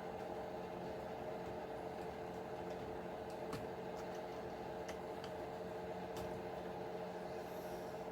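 Steady electrical or machine hum with a few fixed tones, broken about three times by faint light clicks as small parts are handled.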